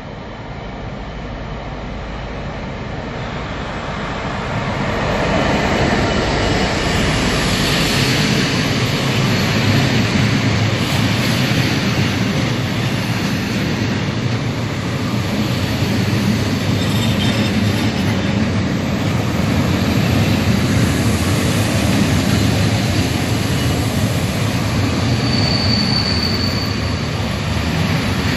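A freight train, a Class 66 diesel locomotive hauling a long string of open wagons, runs through the station. It grows louder over the first few seconds as the locomotive approaches and passes, then the wagons roll by with a steady rumble of wheels and rail clatter. Near the end there is a brief high wheel squeal.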